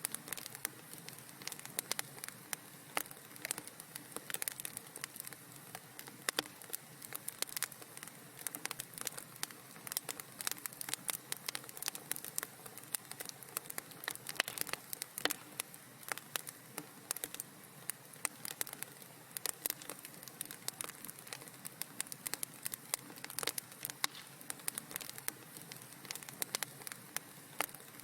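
Wood fire burning in a fireplace, crackling and popping in many quick, irregular snaps over a soft steady hiss.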